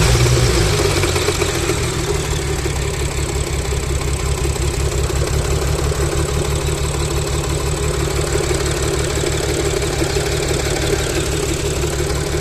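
Supercharged Audi 3.0 TFSI V6 idling steadily with a fast low pulsing, flaring briefly at first and then settling. The engine is not operating correctly.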